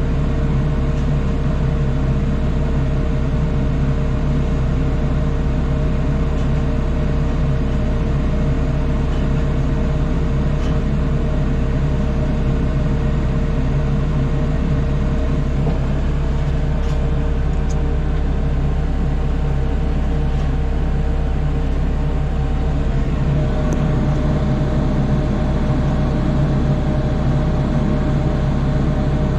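Engine of the crane truck running steadily at a constant speed: a loud, even low drone with a steady whine above it.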